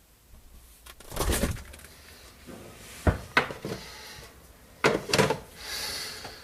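Refrigerator door being opened and handled: a noisy swell about a second in, then several sharp knocks and clatters, and a softer hiss near the end.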